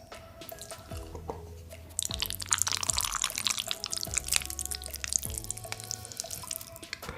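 Background music with steady notes; from about two seconds in, a few seconds of close-miked wet, crackling eating sounds, mouth noises of someone eating spicy noodles.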